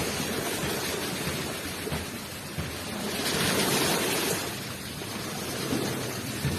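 Waves rushing onto a shore, a steady wash of surf with one wave swelling to a louder rush about three seconds in, then falling back.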